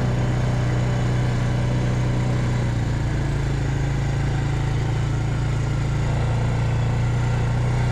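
Vehicle engine running steadily as it drives slowly along a farm track, a constant low drone whose pitch shifts slightly about three seconds in.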